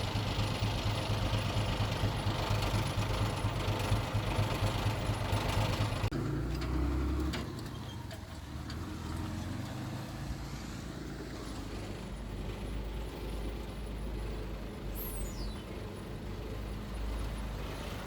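Diesel engine of heavy earthmoving machinery running loudly with a deep steady hum, then dropping suddenly about six seconds in to a quieter, lower engine rumble. A brief high whistle falls in pitch near the end.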